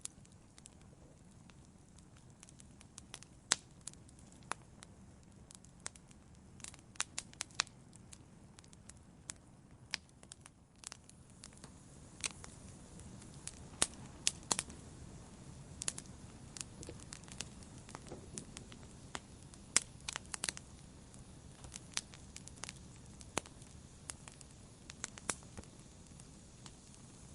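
Campfire burning, wood crackling and popping in irregular sharp snaps over a low steady rush of flame; the snaps come more thickly after about twelve seconds in.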